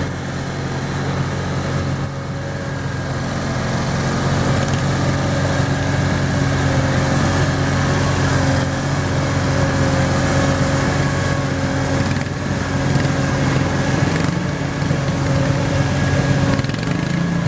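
Garden tractor engine running steadily, a constant mechanical hum with no change in pitch.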